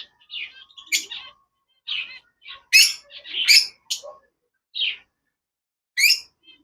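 Caged birds in a bird shop calling: about a dozen short, high chirps and harsh squawks at irregular intervals, each under half a second.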